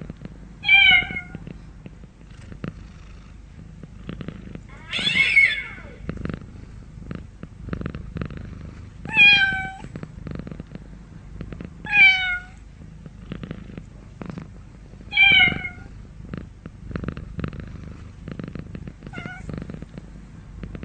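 Domestic cat meowing over and over, a short falling meow about every three seconds, six in all with the last one faint. A low, rough purr runs between the meows.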